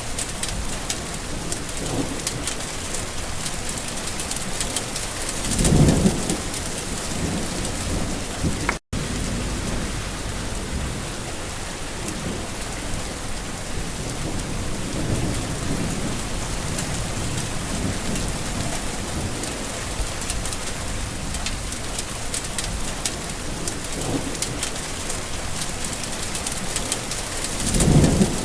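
Steady rain falling, with many fine drop patters, and thunder rumbling low twice: once about six seconds in and again near the end. The sound cuts out for a split second about nine seconds in.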